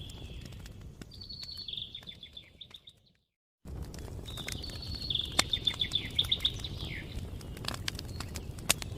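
Campfire crackling with scattered sharp pops while a songbird sings rapid trilled phrases. About three seconds in, the sound fades out to silence for half a second, then comes back abruptly with another longer trill.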